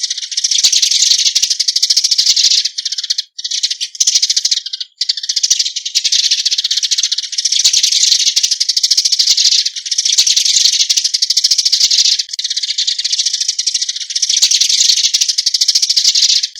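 Eurasian tree sparrows giving their flock-gathering call: a dense, rapid chattering of high chirps that runs almost without pause, broken briefly about three and five seconds in.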